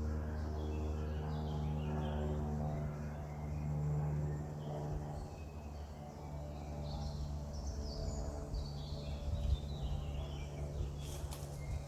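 Small birds chirping and twittering in short scattered calls over a steady low mechanical hum, like a distant engine, which fades somewhat about halfway through. A few sharp clicks near the end.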